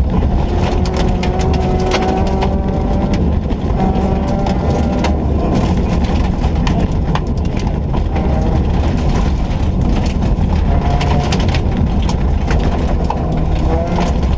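Ford Ka rally car's engine under hard acceleration, its pitch climbing through each gear and dropping back at the shifts, with frequent sharp knocks and rattles from the car.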